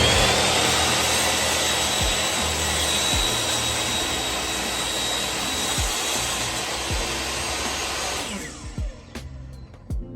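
Electric power saw cutting through a wooden board: the motor's whine rises as it comes up to speed at the start, runs steadily through the cut, and winds down about eight seconds in.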